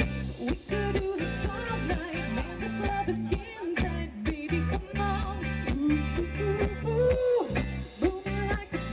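Live pop-rock band playing an instrumental passage: a steady drum beat with bass and electric guitar, and a lead melody that slides and bends in pitch.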